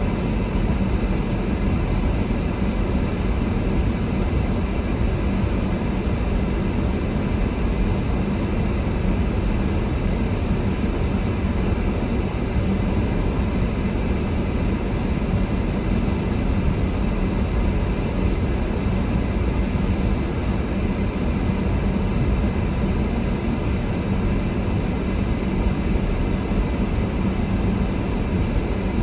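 Steady road and engine noise of a car being driven, with a low hum under a constant rush.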